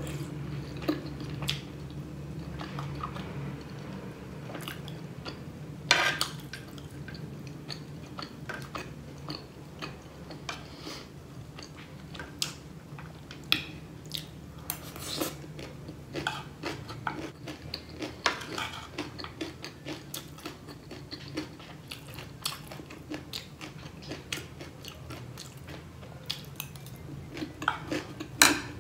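Close-miked chewing and crunching of crunchy chatpate (a spicy puffed-rice and noodle snack), with many short crackles and occasional clinks of a metal spoon, over a steady low hum.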